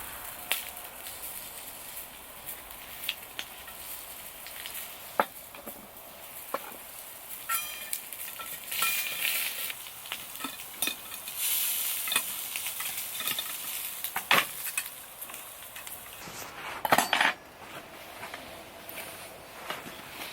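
Food sizzling in a pan while metal utensils click and scrape against it, with scattered sharp knocks and a louder clatter about three seconds before the end.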